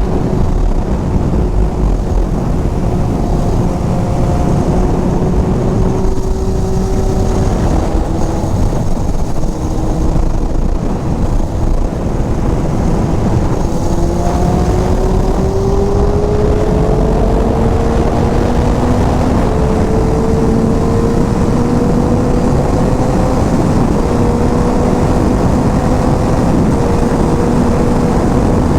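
Inline-four sport bike engine running at speed under heavy wind rush. The engine note holds steady at first, dips briefly, then climbs steadily through the second half as the bike accelerates in gear.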